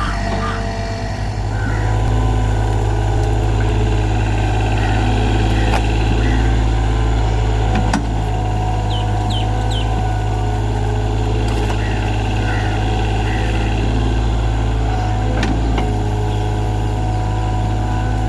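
Komatsu PC30MR mini excavator's diesel engine running at a steady speed, with a few short knocks over it.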